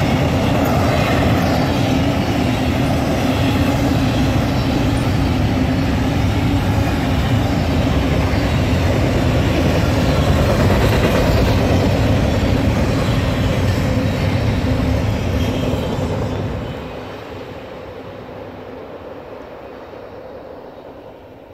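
Train rolling past on the rails, a loud steady rumble with a low hum. About three-quarters of the way through it drops off sharply, then fades away.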